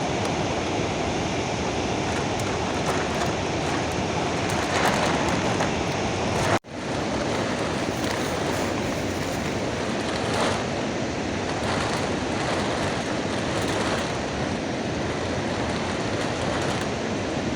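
Heavy rain falling steadily, a dense even rush of noise that briefly cuts out about six and a half seconds in.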